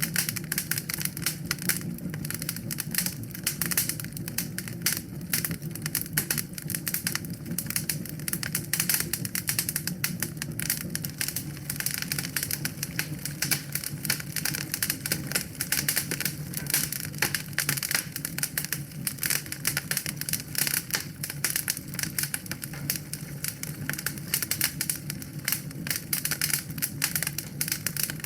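Wood fire crackling in a fireplace: a dense run of irregular sharp pops and snaps over a steady low rumble of the flames.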